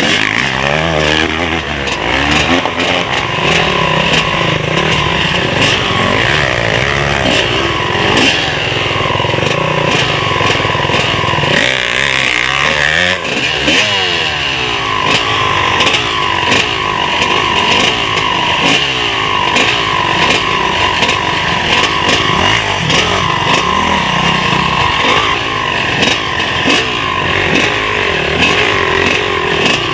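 Motocross motorcycle engines revving up and down repeatedly, with the pitch rising and falling throughout.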